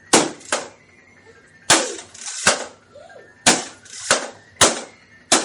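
Toy hammer hitting a light-up number game, about eight sharp hits in uneven pairs and singles, each with a short ringing tail.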